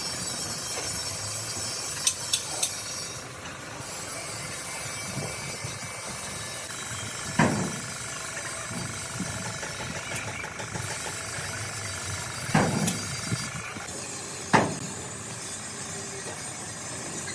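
Truck-repair workshop noise: a steady hiss with several sharp knocks, a quick cluster about two seconds in and single knocks scattered later.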